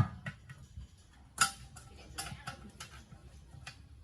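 Light, irregular clicks and taps of hand tools and metal parts being handled during engine restoration work, with one louder knock about a second and a half in.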